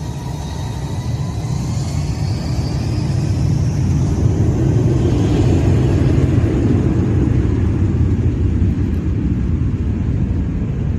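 Airbus A320's IAE V2527-A turbofan engines spooling up to takeoff thrust: a whine rising in pitch over deep jet noise that grows louder over the first five seconds or so and then holds steady.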